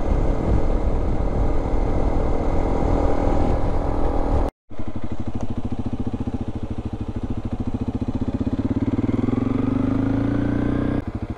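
Single-cylinder engine of a Honda CRF300 Rally motorcycle running while being ridden on a dirt road. After a cut about halfway through, it runs at a slower, more distinctly pulsing beat, rises in pitch over the last couple of seconds, then drops off abruptly just before the end.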